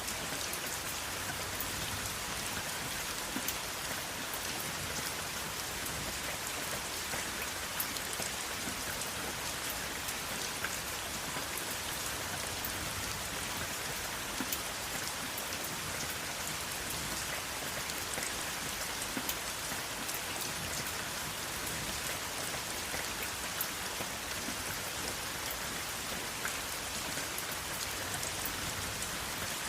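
Steady rain falling, an even hiss with many small scattered drop ticks and no thunder.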